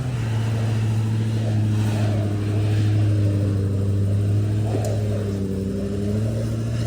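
A vehicle's engine running at a steady drone while driving, its pitch easing down slightly about five and a half seconds in.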